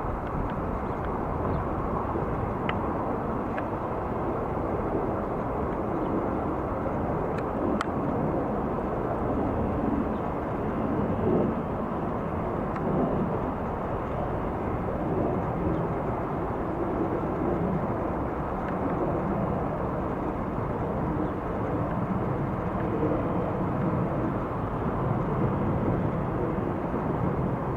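Jet airliner engines running, a steady noise with no rise or fall in level.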